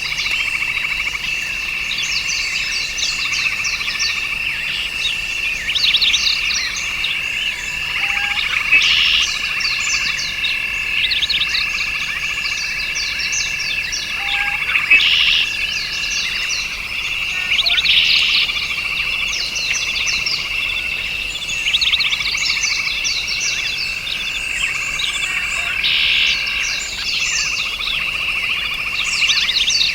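A chorus of frogs and insects trilling steadily, with many short bird chirps over it and a few louder calls every few seconds.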